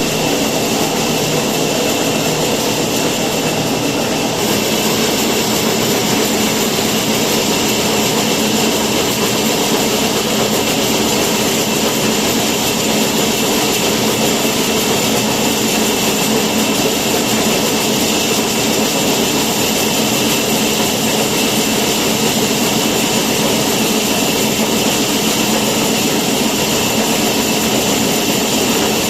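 A power woodworking machine running steadily, an even, unbroken mechanical whir and hiss that carries a few faint steady tones.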